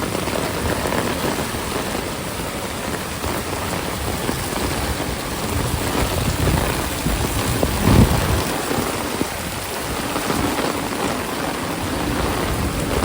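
Heavy rain pouring steadily, with a brief louder low rumble about eight seconds in.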